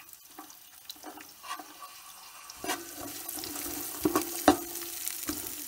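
Chopped onions and vegetables sizzling in hot oil in a stainless steel pot, the sizzle growing from about halfway through. A metal spatula stirs them, with a few sharp knocks and scrapes against the pot.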